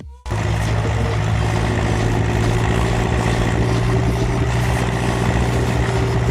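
Ursus C-360 tractor's four-cylinder diesel engine running steadily, a constant low hum that comes in a moment after the start.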